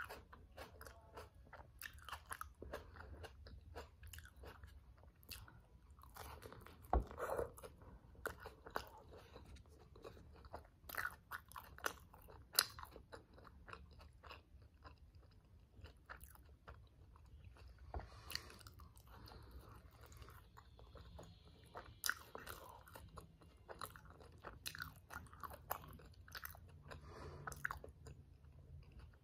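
Close-miked chewing of a grilled tortilla wrap filled with black beans and vegetables: wet mouth sounds and irregular crunches and clicks, with a few sharper crunches now and then.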